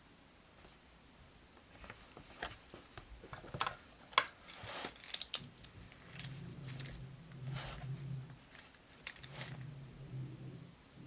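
Paper and stationery being handled in diary decorating: a run of small clicks, snips and rustles, then a low, uneven rubbing or scratching from about six seconds in.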